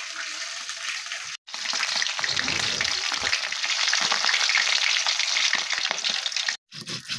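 Chicken pieces frying in hot oil in a blackened kadai: a loud, dense sizzle and crackle that starts about a second and a half in, after a quieter steady hiss, and breaks off near the end.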